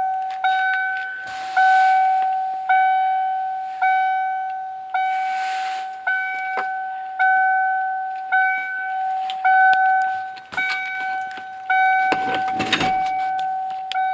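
1995 Ford F-150's cabin warning chime ringing over and over, about one note a second, each dying away before the next. A brief rustle or clatter comes in near the end.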